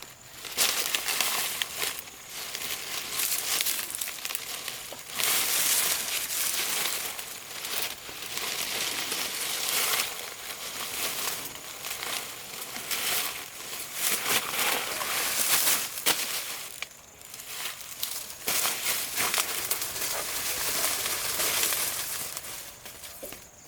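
Rustling and crinkling of dry material, coming in uneven bouts of a few seconds with short lulls between.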